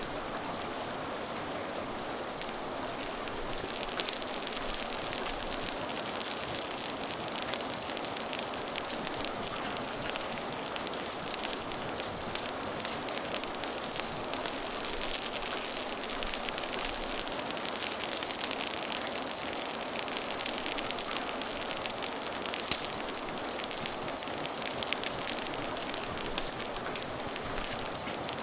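Steady rain falling, mixed with a wood fire crackling: a constant hiss of rain with many small crackles and pops, the crackling growing busier a few seconds in, and one sharper pop about two-thirds of the way through.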